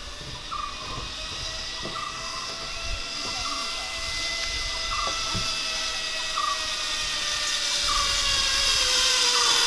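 Zipline trolley pulleys running along the steel cable: a steady whine of several tones that grows louder as the rider comes in toward the landing. A short chirp repeats about once a second behind it.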